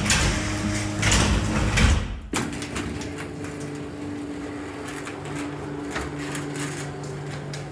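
Overhead garage door running on its electric opener. For the first two seconds it clatters and rattles loudly. It then breaks off suddenly into a steadier, quieter run with a steady motor hum.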